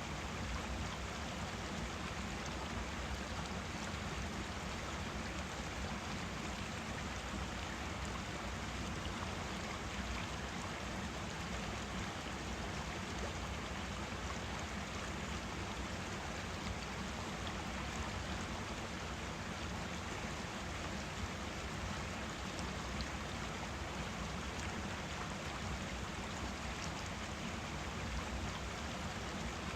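Forest stream flowing steadily, a continuous even rush of water.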